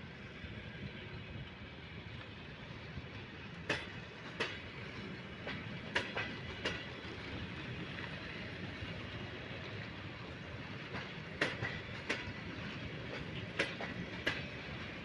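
Railway cars rolling slowly on track, a steady rumble broken by pairs of sharp wheel clacks over rail joints, four pairs in all.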